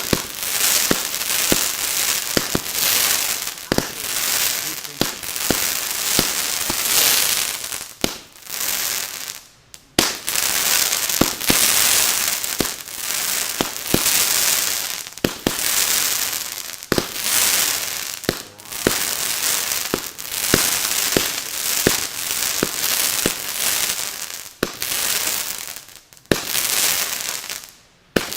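Consumer fireworks going off: a fast run of sharp pops and bangs over dense crackling, in surges about a second apart. There are two short lulls, one about a third of the way in and one near the end.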